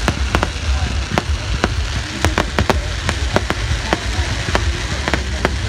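Fireworks going off: a string of sharp, irregular cracks and pops, several a second, over a low rumble.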